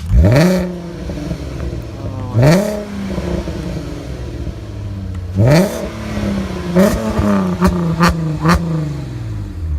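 Car engine revved hard four times, each rev a quick rise in pitch that is held for a moment before the next. A few short sharp cracks come near the end, and the engine tone then falls away.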